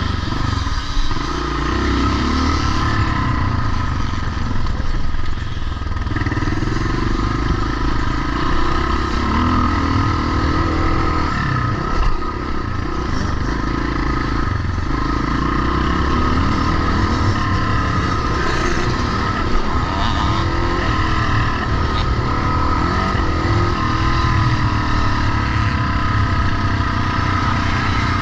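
Vintage pre-1990 motocross motorcycles running, their engines rising and falling in revs.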